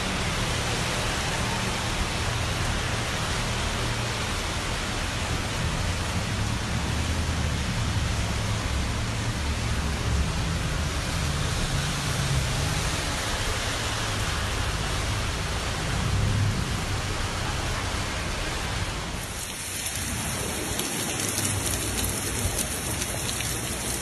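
Heavy rain pouring, a steady hiss with a low rumble underneath. About nineteen seconds in it changes abruptly to a brighter, sharper rain hiss with little low end.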